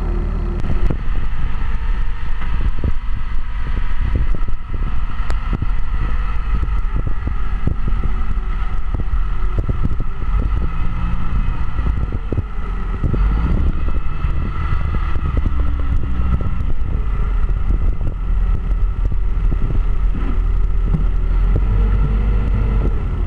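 A large engine running steadily with a low rumble, overlaid with irregular knocks and rattles.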